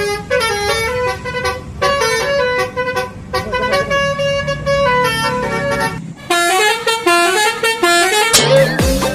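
Basuri telolet bus horn playing its tune: runs of quick stepped notes with short breaks between phrases. Near the end a sound with sliding pitch cuts in.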